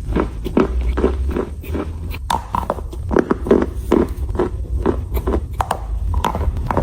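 Close-up chewing of crunchy chalk, a steady rhythm of gritty crunches about two to three a second.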